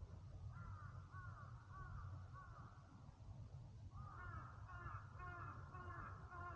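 Crows cawing in short, repeated calls, about two a second at first, then a quicker, denser series of caws from about four seconds in, faint over a steady low rumble.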